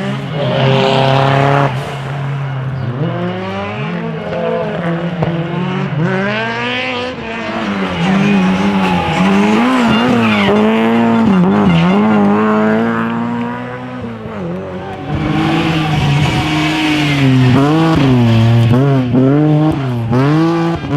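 Drift car engine revving hard, its pitch rising and falling over and over as the throttle is worked through slides, with tyre squeal from the sliding tyres, loudest about a second in and again about sixteen seconds in.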